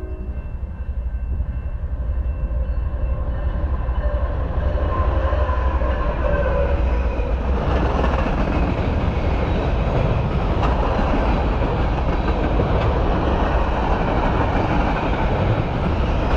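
Freight train's loaded flatcars rolling past close by: steady rumble and rattle of steel wheels on the rails, growing louder over the first several seconds and then holding steady.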